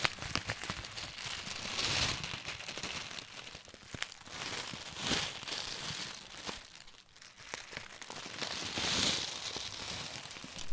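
Close-up crinkling and rustling that rises in three slow swells, with small crackles in between.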